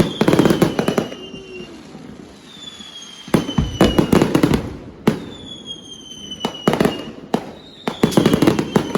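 Fireworks going off: three bursts of rapid crackling bangs about three seconds apart, with high whistles gliding slowly down in pitch in between.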